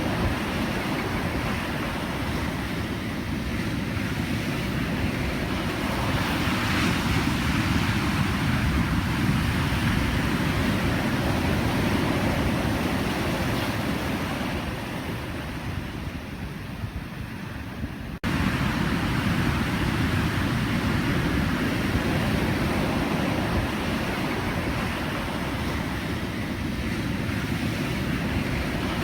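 Pacific Ocean surf: waves breaking and washing in one continuous rush. It eases off for a few seconds past the middle, then snaps back to full strength all at once.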